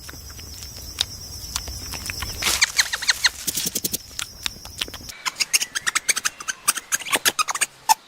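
Small birds chirping: many short, high calls, several a second. The recording changes about five seconds in to a busier run of chirps over less background hum.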